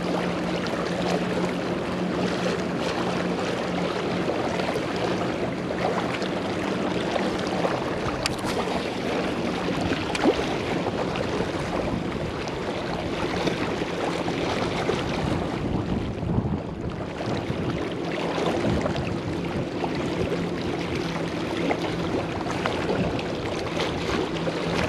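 Wind buffeting the microphone over rushing water, with a steady low hum through the first half that fades after about twelve seconds.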